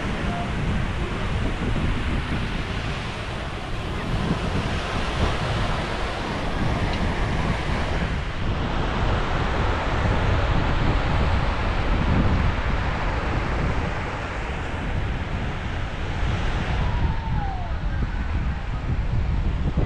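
Sea waves breaking and washing ashore: a steady rushing surf that swells and eases over several seconds, loudest about halfway through.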